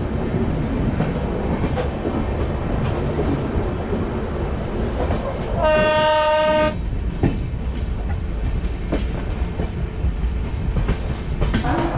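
Moving passenger train heard from the side of a coach: a steady rumble of wheels on rail with scattered clicks over rail joints. Near the middle a train horn sounds once for about a second.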